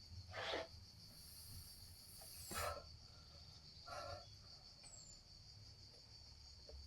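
Faint steady high-pitched drone of insects such as crickets, broken by three short noisy puffs spread over a few seconds.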